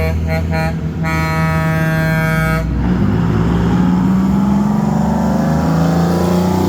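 Semi-truck air horn sounding a few short toots, then one longer blast that cuts off about three seconds in. After it, a diesel truck engine runs with its note slowly rising.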